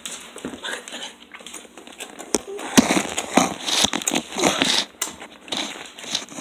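Close rustling and crinkling handling noise with a few sharp clicks, busiest in the middle, as the phone and the puppy are moved about near the microphone.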